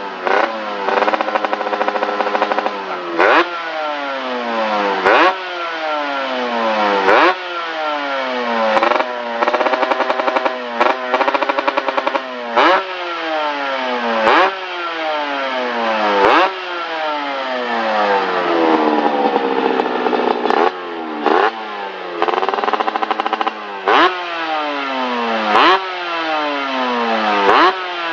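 Motorcycle engine through an aftermarket SBM Star exhaust, revved in quick blips about every two seconds, each one dropping back in a slow falling tone. Now and then the revs are held steady for a second or two before falling away.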